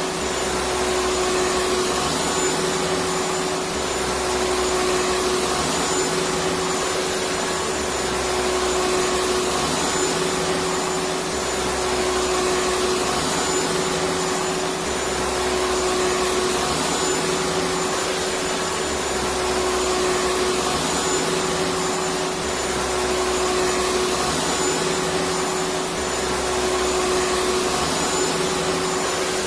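Electric vacuum cleaner running steadily, a continuous rushing motor noise with a steady hum. A faint low rumble beneath it swells and drops about every two seconds.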